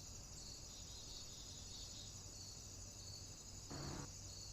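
Faint, steady high-pitched chorus of crickets trilling, with a brief soft rustle near the end.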